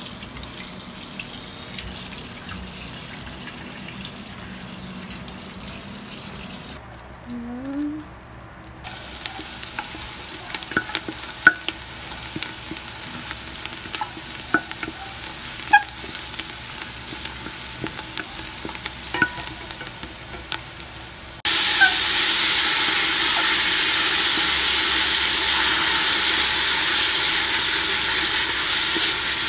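A kitchen tap runs as raw chicken is rinsed in a steel sink. Then chopped onion and garlic sizzle in oil in a stainless pot, with a utensil clicking against the metal. About two-thirds of the way through, the sizzle jumps suddenly much louder as the chicken pieces go into the hot oil and are stirred to sear.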